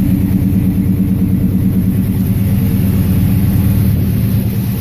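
A 400 cubic inch Chevrolet small-block V8 with a 4-barrel Holley carburetor running steadily just after a cold start.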